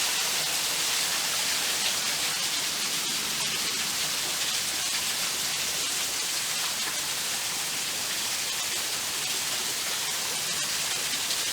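Small woodland waterfall: a steady, even rush of falling water.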